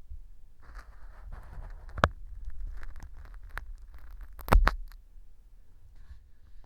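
An earpick scraping and picking at pieces of fu (dried wheat gluten) glued on as mock earwax inside a transparent model ear canal. The glue has set the fu hard, so it gives crisp, scratchy crackling. Sharp clicks come about two seconds in, and the loudest come in a quick cluster about four and a half seconds in.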